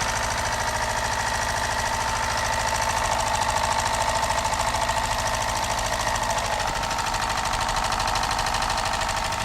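Mini Stirling engine running steadily, driving a small DC motor as a generator: a fast, even mechanical clatter with a steady high tone over it.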